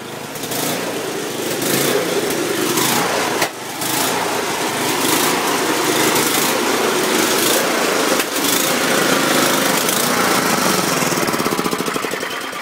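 Murray Euro Series snowblower engine running rough, its level dipping briefly a couple of times. It is very loud in a confined space. The engine has bad gas, and the owner suspects it is low on fuel and has a dirty carburettor.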